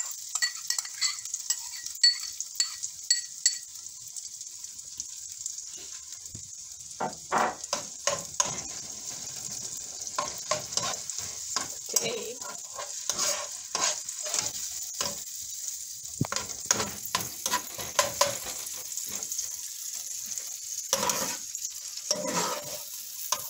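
Chopped onions and bell peppers sizzling as they sauté in a frying pan, with a steady hiss and a utensil stirring and scraping against the pan, busier from about seven seconds in. In the first few seconds, a few light ringing taps as the last peppers are knocked from a small bowl into the pan.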